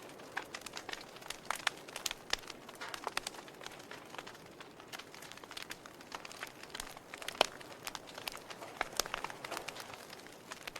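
Wood fire crackling: irregular sharp pops and snaps over a faint hiss, with one louder pop about seven seconds in.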